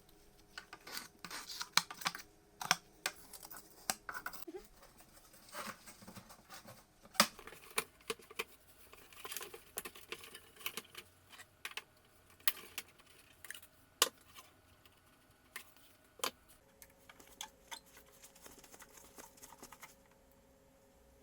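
Hand work on small parts: irregular clicks, taps and light scraping, with a few sharper knocks, as pieces of a vintage reel-to-reel tape recorder are handled and taken apart.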